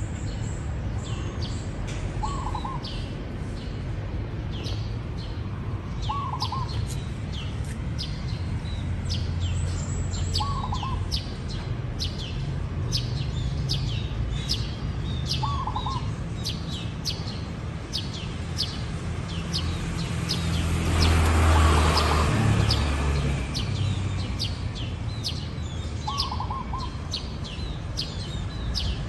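Zebra dove giving short cooing calls about every four seconds, over rapid high chirping from other small birds. About two-thirds of the way through, a rushing swell of noise rises and fades for a couple of seconds, the loudest sound in the stretch.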